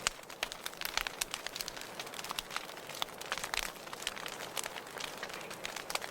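Wood fire in a fireplace crackling: irregular sharp pops and snaps, many a second, over a soft hiss.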